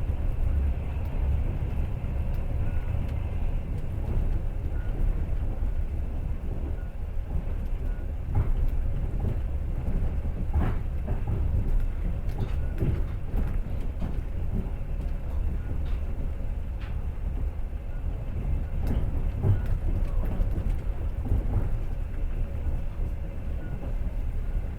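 Passenger train running, heard from inside the carriage: a steady low rumble of the wheels on the rails, with scattered knocks as the wheels clatter over rail joints, in clusters through the middle and near the end.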